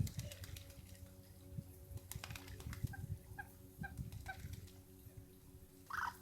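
A bird calling at the waterside: a run of four short calls about half a second apart, then a single louder call near the end, over low rumble and a few faint clicks.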